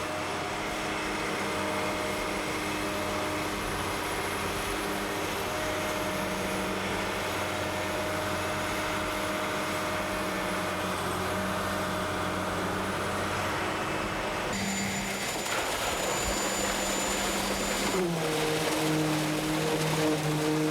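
Diesel engines of heavy construction machinery running steadily. About 18 s in, a different engine note takes over, dipping briefly in pitch as it comes in.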